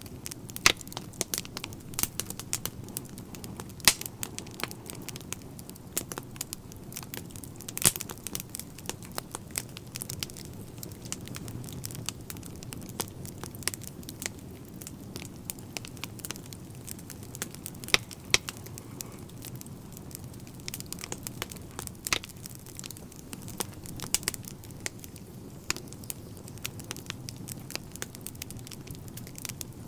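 Wood fire crackling in a fireplace: frequent irregular sharp pops and snaps of burning logs over a steady low rumble of the flames, with a few louder pops scattered through.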